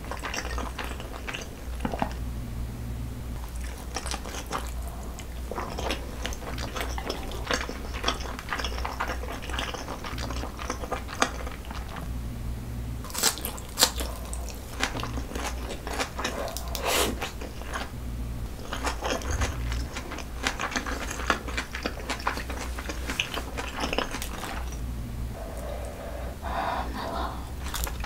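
Close-miked eating sounds: wet chewing of salmon sushi, and crisp crunching bites of fresh sprouts and sliced onion. Irregular clicks and crackles run throughout, with a few louder crunches about halfway through.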